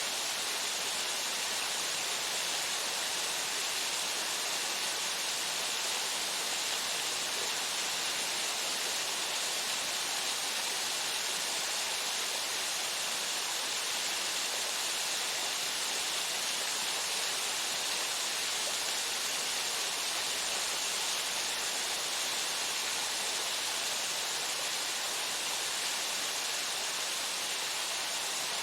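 Waterfall: water falling steadily and splashing into a pool, an even hiss with no change.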